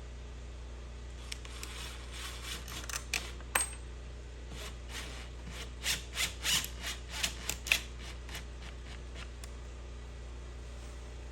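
A run of irregular short clicks and scrapes, about a dozen over several seconds, over a steady low hum.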